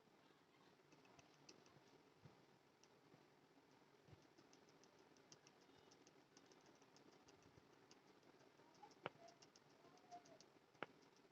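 Near silence: faint room tone with many light ticks throughout and two sharper clicks near the end.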